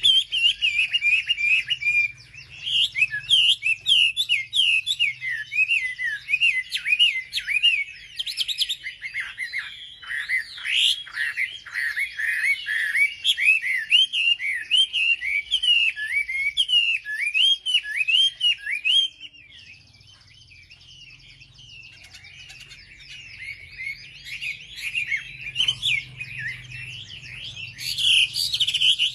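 Wambi bird singing a rapid, continuous chatter of short, sharp chirps that sweep up and down in pitch. About two-thirds of the way through the song breaks off for a few seconds, then builds again toward the end.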